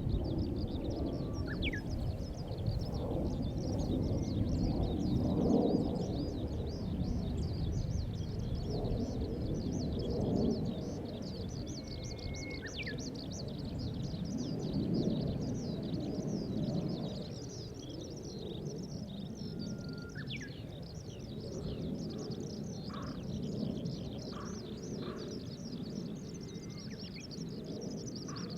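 Distant low rumble of a Boeing 737-800's jet engines as the airliner climbs away, swelling and easing and growing fainter in the second half. Over it runs continuous high-pitched bird chirping, with a few separate falling whistled calls.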